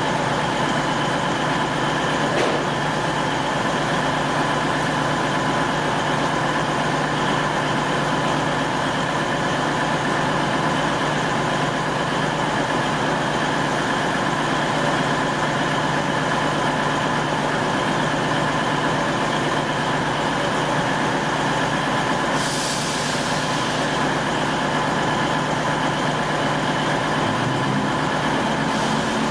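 Diesel train running steadily at a station, a constant hum with held tones. About three-quarters of the way through comes a short hiss of released air.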